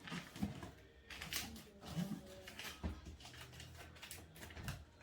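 Cardboard and paper being handled during crafting: a handful of short taps and rustles, spaced roughly a second apart.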